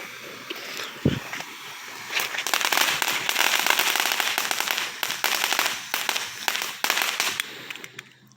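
Consumer firework going off: a fizzing hiss and a thump about a second in, then about five seconds of dense, rapid crackling with a few louder bangs, fading out near the end.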